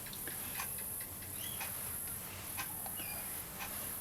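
Faint, high insect trilling that comes in pulses of about a second, with scattered light clicks and a few short chirps.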